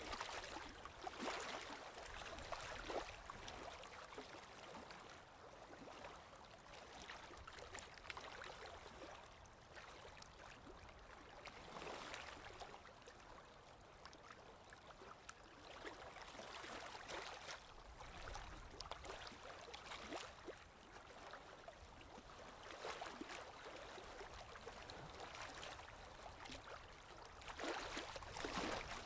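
Flowing water sound effect: a steady wash of running water, swelling every few seconds.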